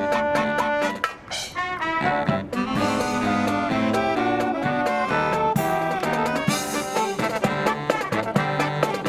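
Marching brass band playing a Christmas medley: trumpets and trombones carry the tune over drum strokes, with a brief drop in the playing about a second in.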